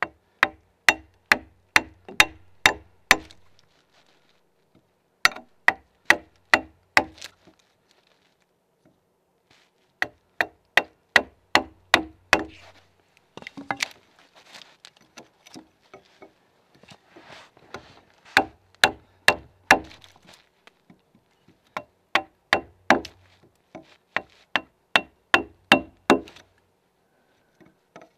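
Axe blows chopping into a timber log, in quick runs of five to seven strokes at about two or three a second with short pauses between runs. Midway there is a stretch of softer scraping and rustling between the runs.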